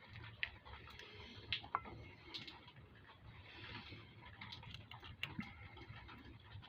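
Faint, scattered light clicks and taps of small metal hardware, such as bolts, being handled, with a dozen or so irregular ticks spread through.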